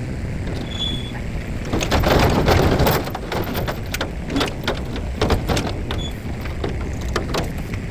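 Plasma cutter cutting through rusted steel: a steady hiss and rumble with irregular crackling that starts about two seconds in and is loudest for the next second or so.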